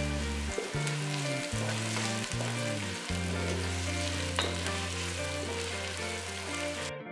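Sliced onions and green chillies sizzling as they fry in hot oil in a pan, stirred with a wooden spatula; the sizzle cuts off just before the end. Background music with low held notes plays underneath.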